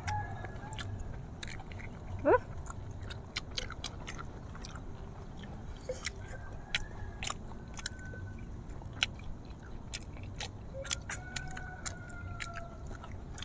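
Fried chicken being bitten and chewed close to the microphone: irregular crisp crunches and clicks of the fried coating, over a steady low hum.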